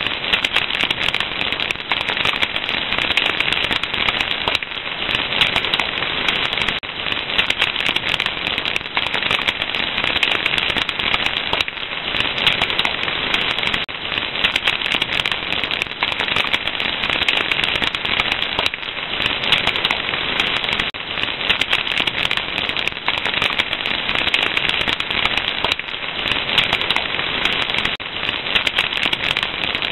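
Fire crackling continuously, with a dense, unbroken run of small pops and snaps at an even level.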